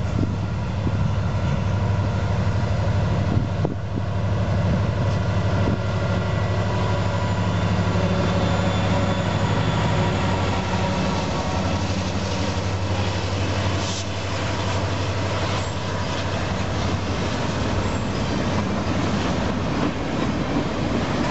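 Freight train led by two Union Pacific EMD SD70M diesel-electric locomotives passing close by. A steady, loud, low engine drone builds as the locomotives approach and go past. In the second half it gives way to the rumble and clatter of the boxcars' wheels on the rails.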